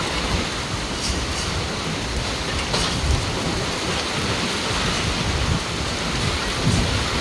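Heavy rain pouring down steadily during a thunderstorm.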